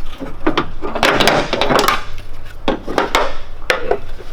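Hard engine-bay parts being handled: a run of irregular knocks and clacks, with a stretch of rubbing and scraping about a second in.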